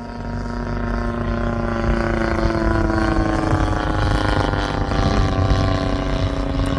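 Engine of a large Laser Z200 RC aerobatic plane, its GP 76 engine, running in flight. It grows louder over the first two seconds, and its pitch eases slightly lower as it passes. Wind rumbles on the microphone underneath.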